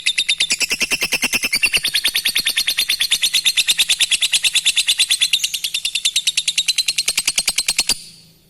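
Lovebird giving a long ngekek chatter: a fast, unbroken run of sharp high chirps, about ten a second, that stops abruptly near the end.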